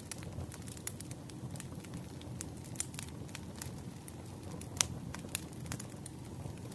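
Wood campfire crackling: a steady low rush of flame with irregular sharp pops and snaps, the loudest pop about five seconds in.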